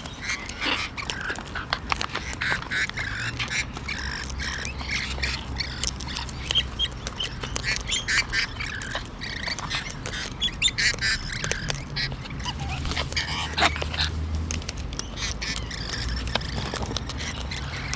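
A flock of wild parrots chattering and squawking at close range, with many short calls overlapping throughout. Frequent small clicks and bumps run underneath them.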